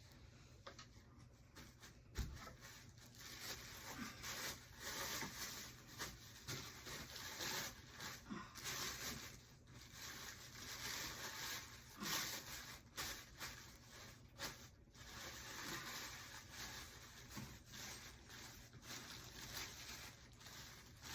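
Tissue paper and a cotton t-shirt being handled, folded and wrapped, with uneven rustling and crinkling and scattered light knocks and clicks.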